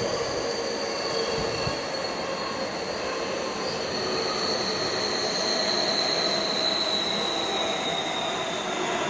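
Commuter train running on the rails with its wheels squealing: a high, steady tone that slowly falls in pitch over the rumble of the train.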